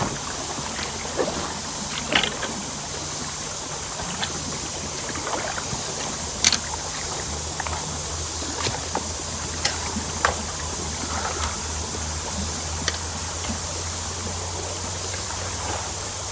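Steady rush of flowing creek water through a culvert, with scattered short splashes and knocks and a low steady hum underneath.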